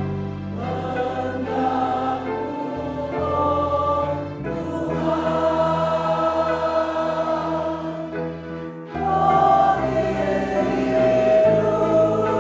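Church choir singing a hymn in sustained chords over long-held low accompanying notes, the harmony changing every second or two.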